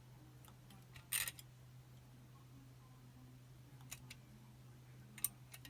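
Faint metallic clicks and a short scrape of a picking wire and tension tool working the levers inside a Chubb Detector five-lever lock: a brief cluster about a second in, then single clicks near four and five seconds.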